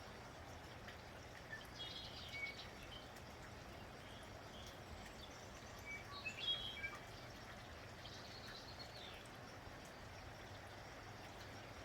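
Steady light rain with birds chirping now and then, in short high clusters about two, six and eight seconds in.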